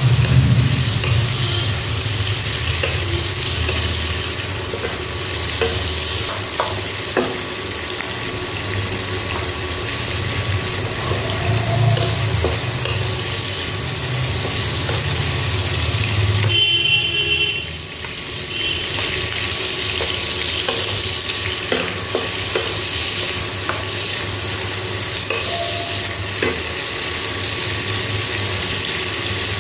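Prawns frying in hot oil in a wok: a steady sizzle, with a spatula stirring and scraping against the pan now and then.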